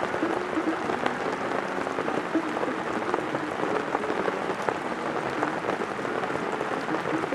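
Steady heavy rain with many separate drop hits, loud enough to nearly bury faint jazz played from a cassette through a small portable speaker.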